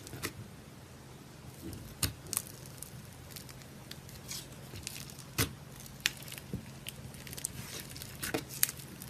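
Butter slime being handled and squished by hand, giving irregular small clicks and crackles, with a faint steady hum underneath.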